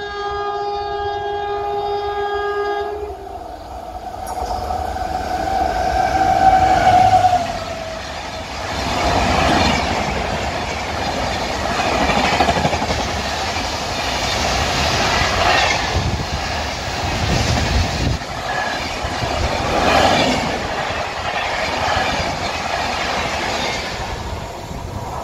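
WAP-7 electric locomotive sounding its horn in two long blasts, then the train passing at speed, about 123 km/h: a loud rushing noise of the coaches going by with wheels clattering over the rails.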